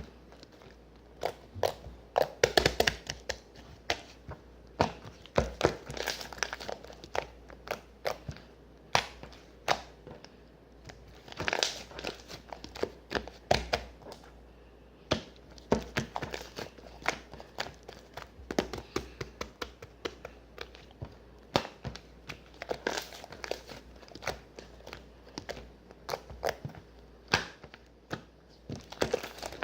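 Irregular crinkling and crackling, as of something like plastic or paper being handled and crumpled, with many sharp crackles at uneven intervals.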